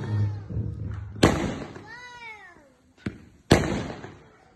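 Fireworks going off: two sharp bangs about two seconds apart, each fading away, with a small crack just before the second. Between them comes a short high call that rises and then falls in pitch.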